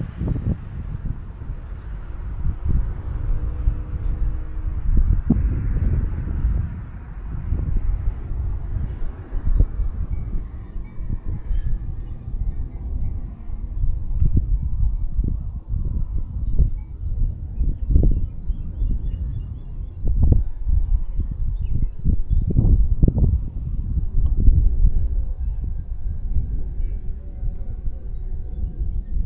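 Crickets chirping in a steady, high, rapidly pulsing trill, over wind buffeting the microphone in gusts.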